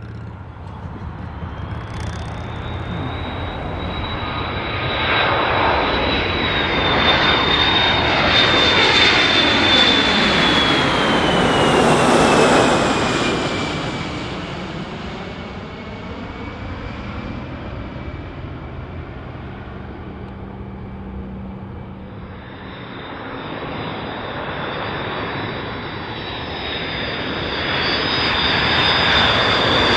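Jet aircraft passing overhead: a high engine whine and rush build up, peak about twelve seconds in, and the whine drops in pitch as it goes by. A second rise in engine noise builds toward the end.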